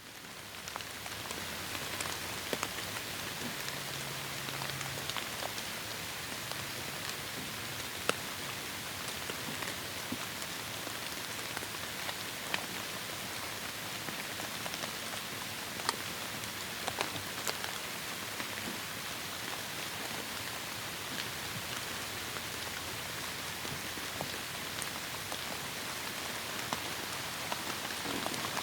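Heavy rain falling in a forest: a steady, even hiss with scattered louder drops ticking through it. It fades in over the first second.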